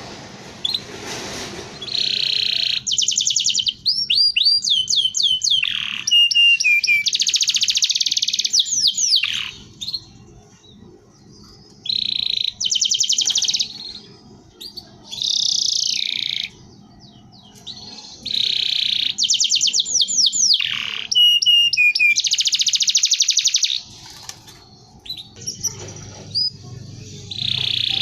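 Canary singing in repeated phrases of fast trills and downward-sliding whistled notes, with short pauses between phrases.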